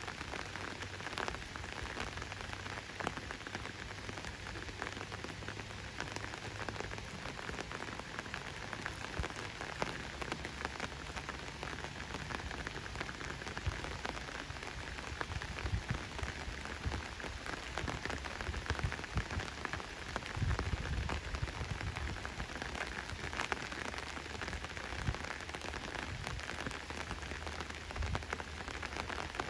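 Steady rain falling, a continuous hiss dotted with the ticks of individual drops, over a low rumble that comes and goes.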